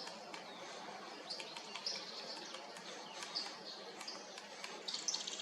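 Small songbirds chirping: short, high chirps every second or so, coming thicker near the end, over a faint steady background noise.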